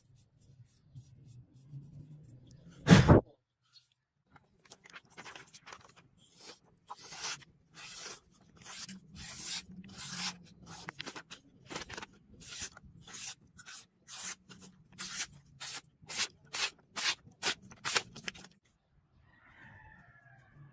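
A loud single knock about three seconds in, then a long run of short scraping strokes that come faster and faster before stopping abruptly near the end.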